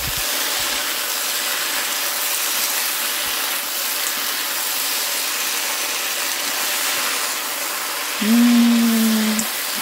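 Courgettes and carrots sizzling steadily in a hot frying pan with sour cream just added, stirred with a wooden spatula.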